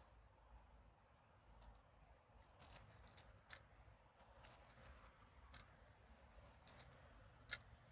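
Faint, scattered clicks and rustles, with a few sharper clicks at about three and a half, five and a half and seven and a half seconds in.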